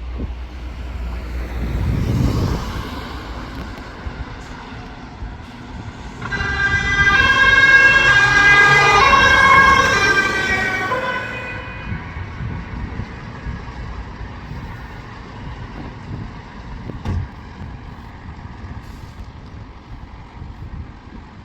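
Emergency vehicle sounding a loud, steady multi-tone warning horn for about five seconds, starting about six seconds in, over street traffic. Traffic noise surrounds it, with a vehicle passing about two seconds in.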